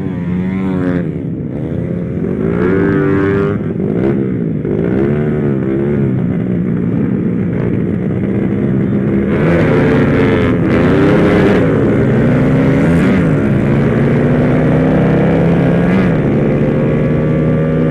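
Small motorcycle engine on the move, its pitch rising and falling several times as it revs up and shifts through the gears, then held high and slowly climbing near the end.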